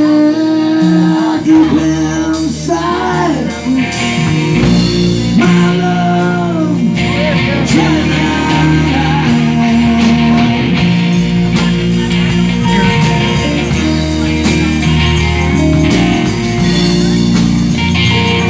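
Live band playing a song with a singer, guitar, a bass line moving in steps and drums keeping a steady beat.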